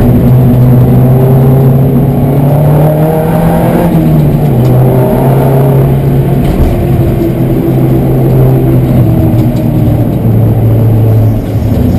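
Peugeot 207 race car's engine running hard up a hill road, its pitch rising and falling with the throttle and then dropping sharply near the end as the driver lifts or shifts.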